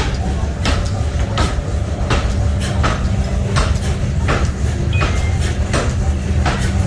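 Workshop machinery running with a steady low hum, with sharp knocks about once or twice a second at uneven spacing, typical of steel nut-making work.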